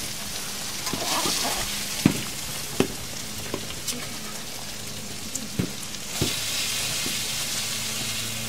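Steady sizzle of food frying, over a low steady hum. A handful of sharp clicks and knocks come through, the loudest about two seconds in.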